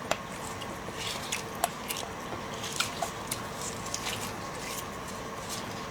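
Close-miked eating of seafood: scattered wet clicks and crackles of chewing and biting, over a faint steady hum.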